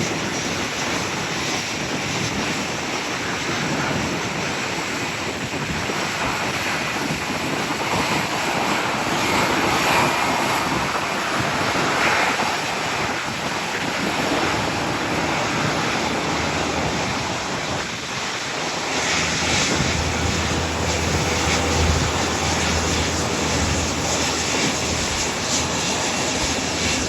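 Wind buffeting the microphone over the steady noise of an Airbus A380's jet engines at idle as the jet lines up on the runway. A low engine hum joins about two-thirds of the way in.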